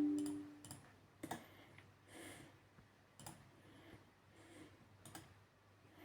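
Faint, sparse sharp clicks about every two seconds, with soft rustling between them; a two-note electronic computer chime fades out at the start.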